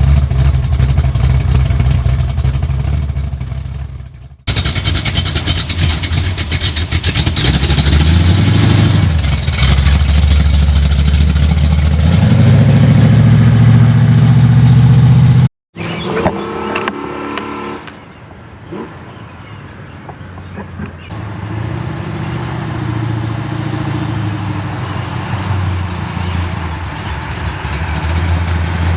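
Big-block V8 of a Buick Skylark running through Borla Pro XS mufflers, heard as several edited clips. The engine first runs steadily, then comes a loud stretch where it revs and pulls, its pitch rising and dropping. After a break about halfway it settles into a quieter, steady rumble that gradually builds.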